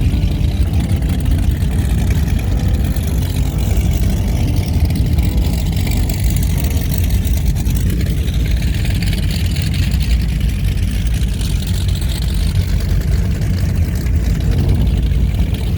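Twin outboard motors on a boat running steadily, a loud, even low rumble.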